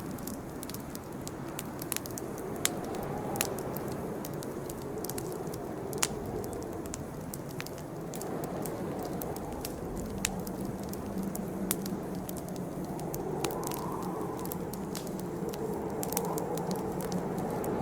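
Campfire crackling: irregular sharp pops and snaps over a steady low rush of burning wood.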